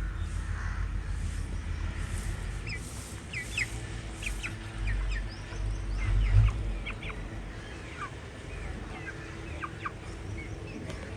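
Young Indian parrot-beak chickens peeping and clucking: many short high chirps, scattered and overlapping, over a low rumble that swells about five to six and a half seconds in.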